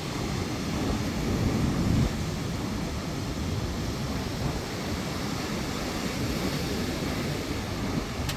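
Stormy seashore: wind rumbling on the microphone over the wash of surf, a continuous noise that swells to a gust about two seconds in and then drops back.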